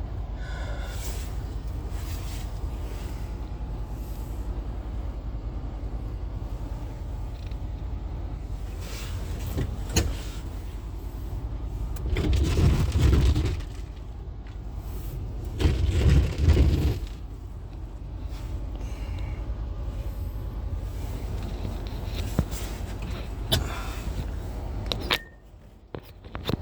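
A motor vehicle running with a steady low rumble that swells louder twice in the middle, with a few sharp knocks.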